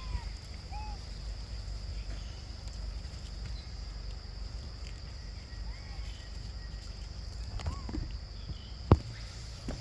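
Outdoor forest ambience: a steady high insect drone with a low rumble beneath, a few short chirping calls, and one sharp click about nine seconds in.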